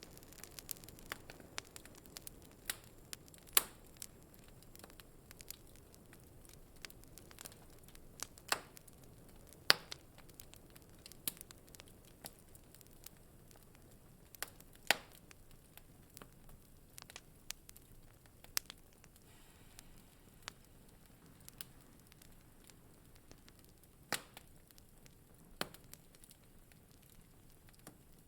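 Wood fire in a fireplace crackling: scattered sharp pops at irregular intervals, a handful much louder than the rest, over a faint steady hiss.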